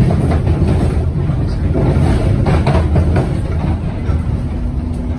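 1972 Stock Bakerloo line train running on the rails: a steady low rumble with a few clicks and knocks about two to three seconds in. A steady hum comes in near the end.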